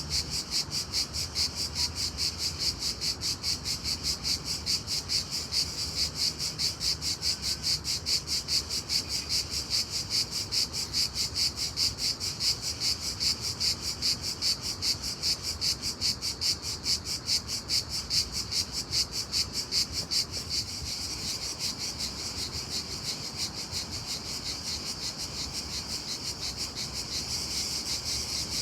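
Loud daytime chorus of chirping insects, which the uploader takes for crickets. The high chirping pulses evenly, about three times a second, then blends into a steadier trill about two-thirds of the way in.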